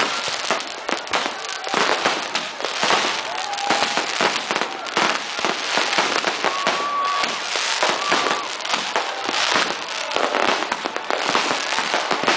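Fireworks going off at close range: a dense, unbroken run of bangs, pops and crackle.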